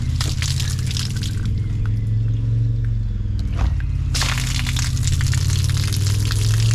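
Trapped rainwater pouring and splashing out of a blocked gutter and downpipe as it drains, turning louder and more splashy about four seconds in, over a steady low hum.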